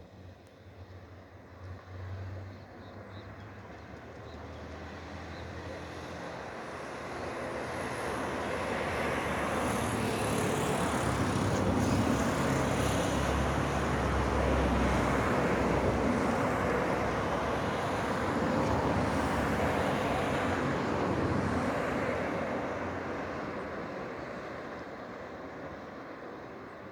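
A passing vehicle: a steady, even noise swells slowly, is loudest for about ten seconds in the middle, then dies away.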